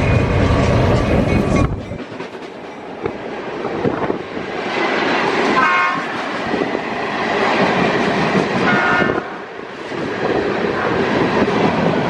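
Train running through on the rails, a heavy low rumble that drops away about two seconds in, leaving wheel noise on the track. A short horn sounds twice, around six and nine seconds in.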